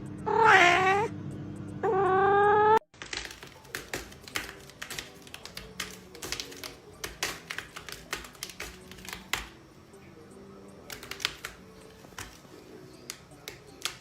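A cat meowing twice, a short falling-and-rising meow and then a longer one, over background music. After an abrupt cut come about eleven seconds of irregular sharp clicks and taps, with quiet music underneath.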